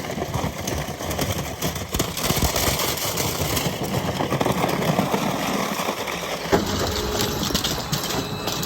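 Heavy-duty industrial scrap metal shredder running and tearing through scrap appliances: a dense, steady grinding full of small cracks and knocks, with one sharp bang about six and a half seconds in.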